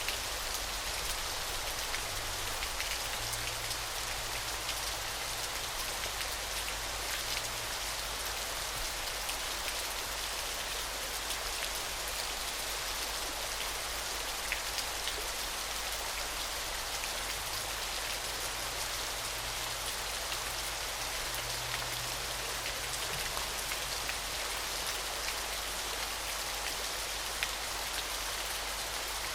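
Waterfall: a steady, even hiss of falling water, with fine splashing like heavy rain.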